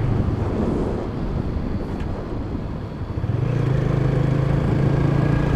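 Motorcycle engine and road noise while riding; about three seconds in, the engine note grows louder and then holds steady.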